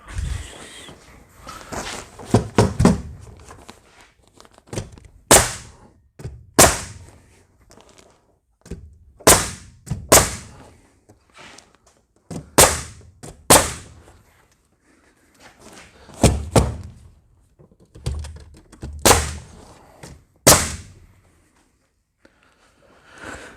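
Nail gun firing nails into cedar tongue-and-groove ceiling boards: about ten sharp shots, mostly in pairs a second or so apart, with softer knocks of boards being fitted in the first few seconds.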